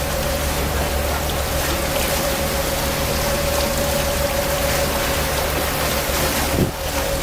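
Tour boat's engine running steadily under way, a low drone and a constant hum under a loud, even rushing of water and wind. A brief knock near the end.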